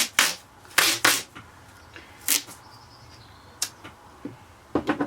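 A series of short rustling and scraping noises from crafting materials being handled on a work surface, about half a dozen separate bursts at uneven intervals.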